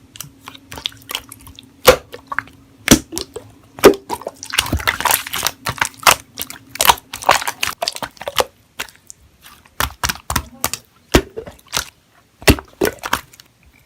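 Slime being pressed and squeezed by hand, giving an irregular run of sharp clicks and pops, with a denser squishing stretch about four to five seconds in.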